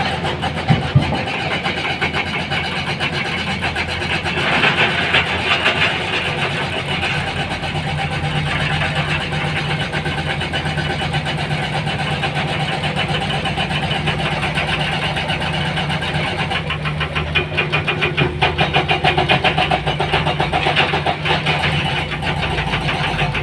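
Heavy diesel engine running steadily, with a steady low hum settling in about a third of the way through and a quicker pulsing beat near the end.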